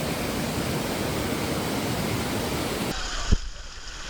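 Steady rushing of a waterfall that cuts off abruptly about three seconds in, giving way to a quieter background with a single short thump.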